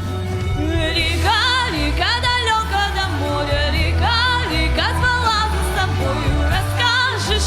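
Wordless singing over a pop backing track: the voice glides up into notes and holds them with vibrato, over a steady bass pulse.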